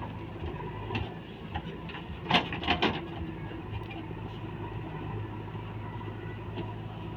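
Heavy vehicle engine running steadily at a low hum, with a few short sharp knocks about two and a half seconds in.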